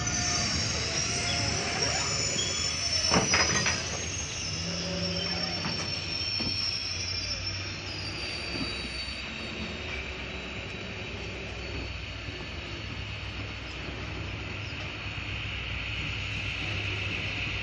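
Moving passenger train's coaches running along curving track, the wheels squealing in several high thin tones over the first few seconds. A sharp clank a little after three seconds in is the loudest sound. After it comes a steady rumble and hiss of the running train.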